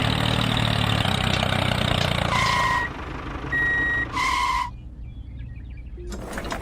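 Toy vehicle running with a steady engine-like noise. About two seconds in it gives three short electronic beeps like a reversing alarm, then goes much quieter.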